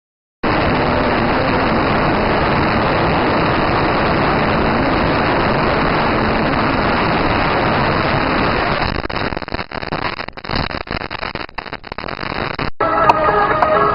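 Steady noise of a car driving, an even rushing with no clear pitch, which turns choppy with dropouts near the end. A hard cut about a second before the end brings in music.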